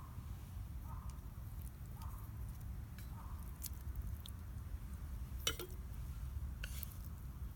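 Wood fire crackling: a few sharp pops and snaps, the loudest just past the middle, over a steady low rumble.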